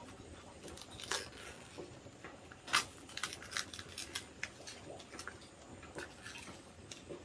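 Scattered light clicks and rustles at close range, irregular, with a sharper click about a second in and another just under three seconds in.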